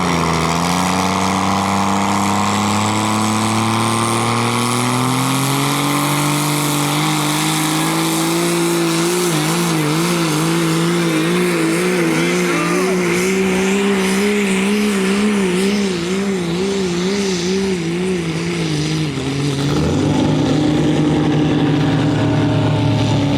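Dodge pickup's turbocharged six-cylinder diesel under full load pulling a weight sled: the engine climbs steadily in pitch over the first several seconds, then holds at high revs with the pitch wavering up and down. About sixteen seconds in the revs fall away, then pick up again and hold near the end.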